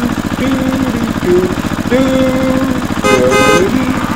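Small engine running steadily with a rapid, even chugging pulse. A brief sharper sound with many overtones cuts in about three seconds in.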